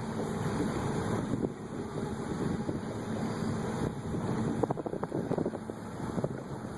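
Motorboat engine running steadily under a rough rush of wind buffeting the microphone, with a few brief knocks about five seconds in.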